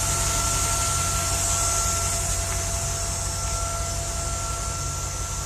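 2002 GMC Blue Bird Handybus's 8.1-litre gasoline V8 idling: a steady low rumble with a faint steady whine and hiss above it, growing slightly fainter.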